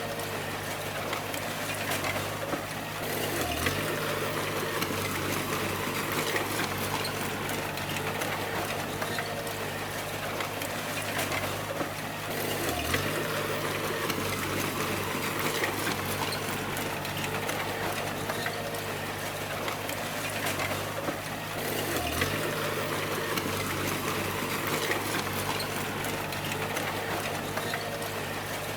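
D20 bulldozer's diesel engine running steadily while working, over a constant clatter. Its pitch dips briefly three times, about nine seconds apart.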